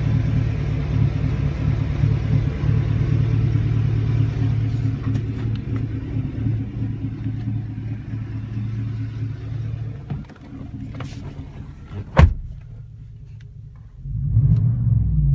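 Chevrolet Silverado 5.3-litre V8 with a Flowmaster Super 44 exhaust, a deep, steady exhaust rumble that dies down about ten seconds in. There is a single sharp knock about two seconds later, and the rumble swells again near the end.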